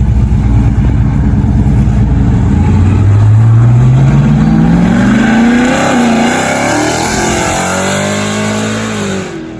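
Car engine running with a lumpy low rumble, then revving up, rising steadily in pitch. The pitch dips briefly about six seconds in, then holds and eases off, and the sound cuts off just before the end.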